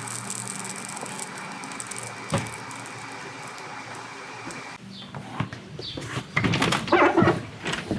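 A steady hum with one sharp knock about two seconds in. The hum stops about five seconds in and gives way to a run of knocks and clatter, like a door or cupboard being handled.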